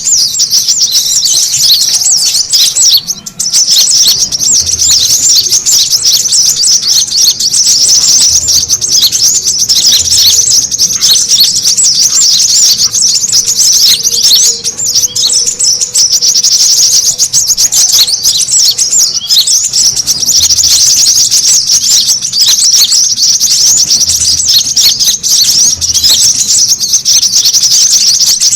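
Brown-throated sunbird (kolibri kelapa) giving rapid, continuous high-pitched chattering chirps, with only a brief break about 3 seconds in. This is the agitated "ribut" song that bird keepers play as a lure to draw other birds in and to set caged sunbirds singing.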